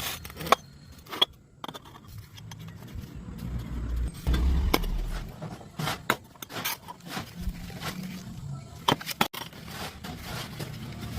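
Irregular sharp metal clinks and knocks with scraping, over a low rumble.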